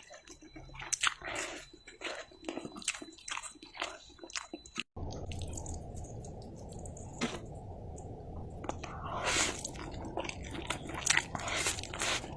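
Close-miked eating of mi goreng fried noodles with egg: chewing and biting, with many quick wet mouth clicks and smacks. About five seconds in the sound cuts out for an instant, and after that a steady low rumble runs underneath the chewing.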